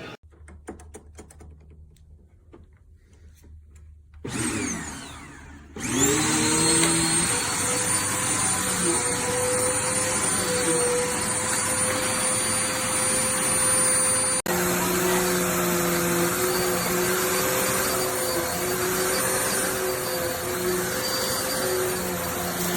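Hoover Complete Performance bagged corded vacuum cleaner switched on about six seconds in, its motor whining up to speed and then running steadily and loud. Before that there are a few seconds of faint handling noise.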